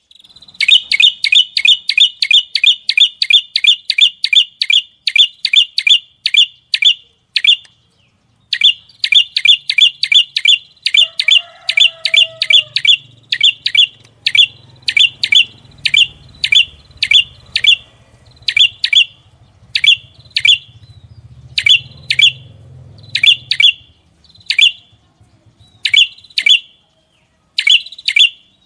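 A caged songbird calling in long series of sharp, loud chirps, fast at about three to four a second, then slowing to single chirps spaced a half-second to a second apart. This is the kind of song used as a tutoring recording for training songbirds.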